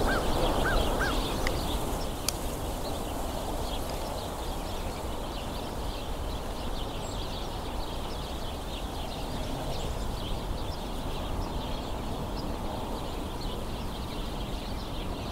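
A large flock of house sparrows chirping and squabbling, many short overlapping chirps without a break. A few repeated arched notes come through in the first second, over a steady low background rumble.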